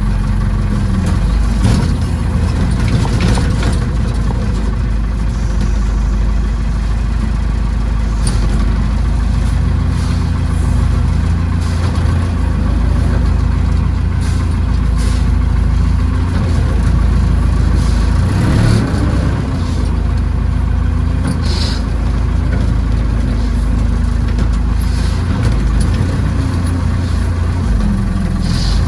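Tractor backhoe engine running steadily under varying load, its pitch dipping and recovering a few times, with occasional sharp knocks.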